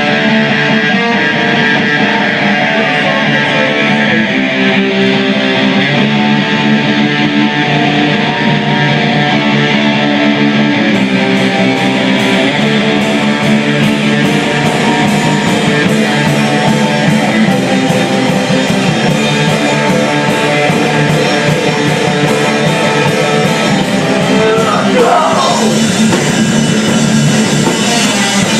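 Live heavy rock band playing: electric guitar with bass and drums at a steady loud level. A regular cymbal beat comes in about a third of the way through, and a guitar pitch slides down near the end.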